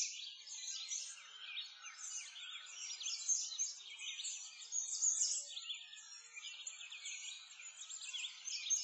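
A dense chorus of many small birds chirping and singing at once: rapid, overlapping high calls with no pause.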